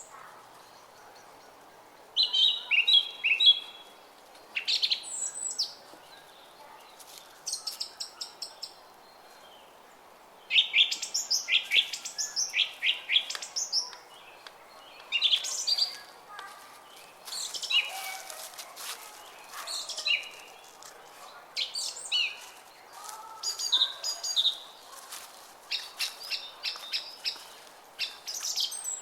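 Small songbirds singing in short chirping phrases and quick runs of repeated notes, one after another with brief gaps, over a faint steady murmur of a running brook.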